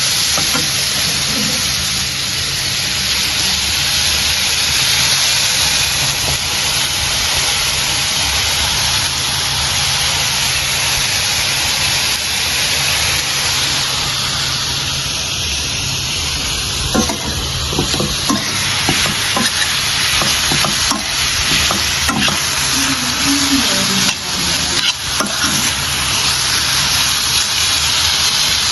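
Food frying in hot oil in a cooking pot, a steady loud sizzle. A few short knocks, like a spoon against the pot, come about two-thirds of the way through and again a little later.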